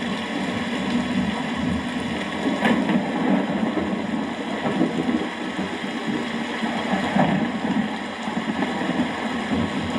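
Steady rain falling in a storm: a dense, continuous wash of noise with a heavy low rumble under it.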